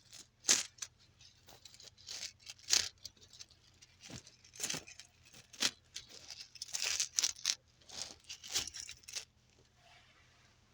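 Close-miked series of irregular clicks and crackles, stopping about nine seconds in.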